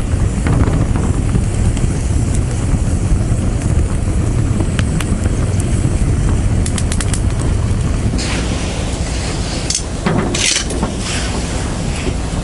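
Small outdoor bonfire of dry leaves and twigs burning, with scattered sharp crackles over a steady low rumble. A spell of hissing, rustling noise comes about eight seconds in and lasts a few seconds.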